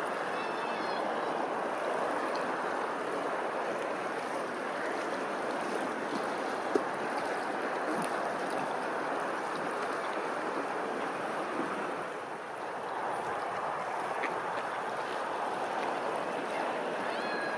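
Running water flowing steadily, with a single sharp click about seven seconds in and faint high chirps near the start and end.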